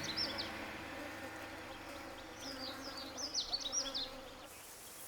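Forest ambience with a small bird's high chirping calls in two quick runs, one right at the start and one from about two and a half seconds in, over a low musical note that fades away.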